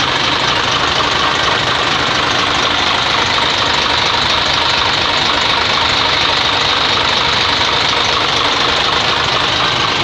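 Isuzu 6HE1 turbo-diesel inline-six truck engine idling steadily, heard up close with its ordinary diesel clatter. It runs without the knock-like noise now that the failed engine-driven air compressor that caused it has been replaced.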